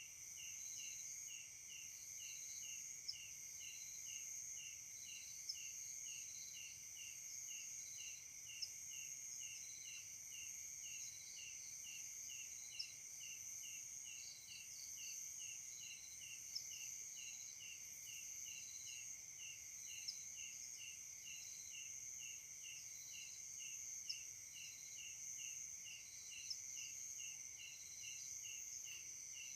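Night insect chorus: a steady high-pitched trill overlaid by a pulsing insect call at about two pulses a second, with a short sharp tick every few seconds.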